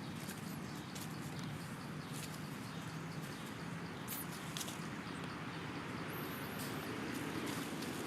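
Steady outdoor background noise with scattered faint clicks and a brief high-pitched chirp about six seconds in.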